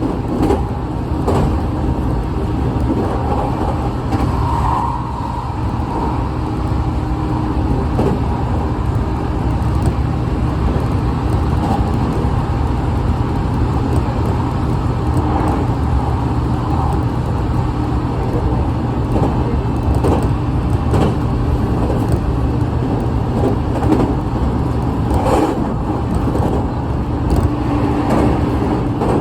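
Train running: a steady low rumble with scattered clicks and knocks.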